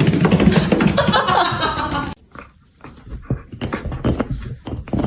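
A dog vocalizing loudly for about two seconds, cutting off abruptly, followed by faint scattered clicks and taps.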